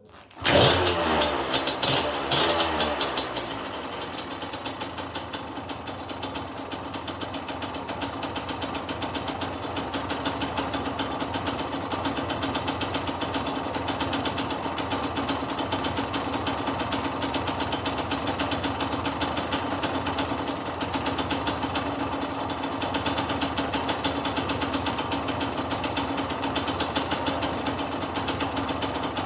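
Kawasaki KDX125SR's single-cylinder two-stroke engine starting about half a second in, revving briefly over the first couple of seconds, then settling into a steady idle.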